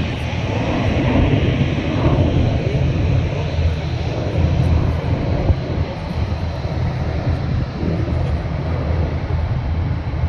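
Jet aircraft engines making a steady, loud roar that is heaviest in the low rumble.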